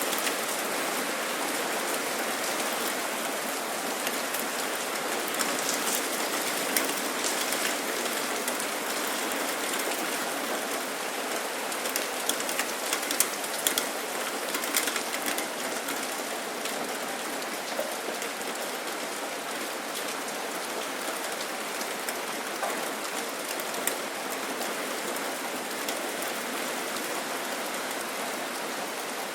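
Steady rain falling, with scattered sharp drop ticks that cluster about twelve to fifteen seconds in.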